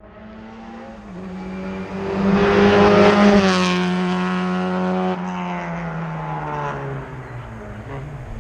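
Historic rally car passing at speed: the engine note builds as it approaches, is loudest about three seconds in, then drops in pitch as it goes by and fades away.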